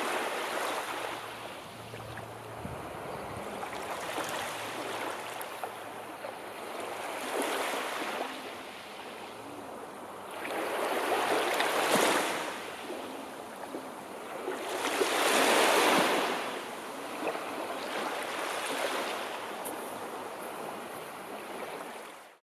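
Sea waves washing ashore in slow swells every few seconds, the later two the loudest. The sound cuts off abruptly near the end.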